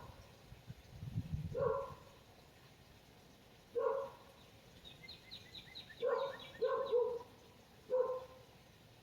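A dog barking, single short barks every couple of seconds, six in all, with two close together about seven seconds in. A quick run of high chirps comes about five seconds in.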